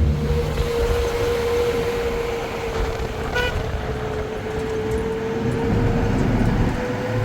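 A motor vehicle running with steady road rumble and a steady whine, and a short horn beep about three and a half seconds in.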